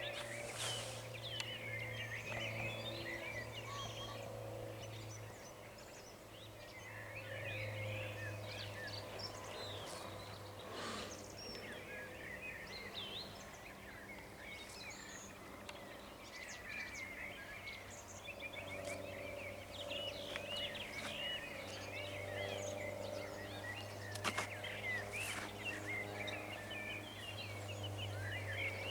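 Dawn chorus of many songbirds singing over one another, with a steady low hum underneath that swells and fades.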